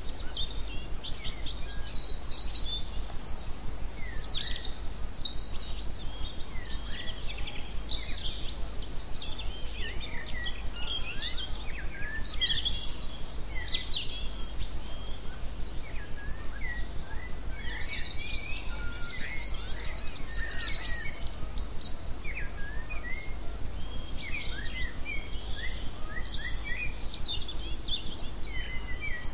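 Small songbirds chirping and twittering, many short high calls overlapping, over a steady low hum.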